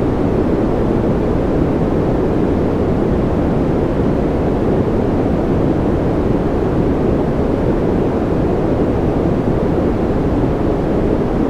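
Steady, unchanging masking noise for sleep, deep and muffled rather than hissy, with no rise, fall or breaks.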